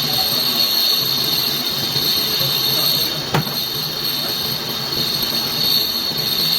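Metal-turning lathe running as it machines a steel hydraulic piston, a steady high-pitched whine over a low hum. A single sharp click comes about halfway through.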